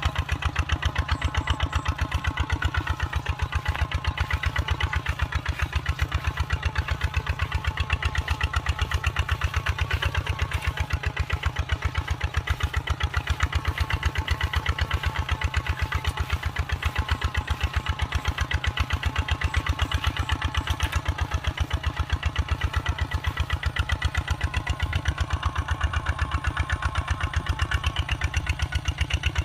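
Kubota RT 140 single-cylinder diesel engine running steadily, with an even, rapid exhaust beat.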